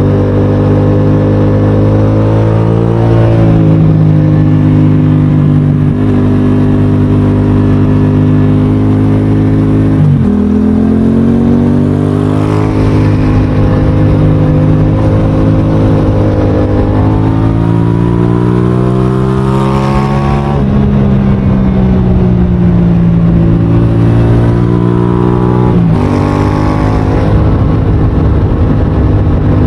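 Motorcycle engine running hard at high revs, its pitch held or climbing slowly, then dropping sharply several times as it shifts gear.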